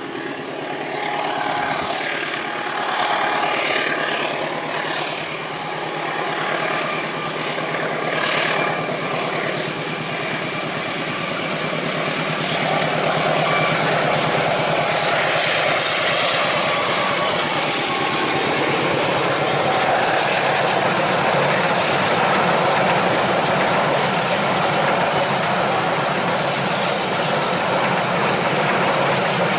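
Diesel-electric locomotive working hard as it hauls a long passenger train up a steep grade. From about twelve seconds in, the steady engine note gives way to a louder, even rush of the coaches' wheels rolling past on the rails.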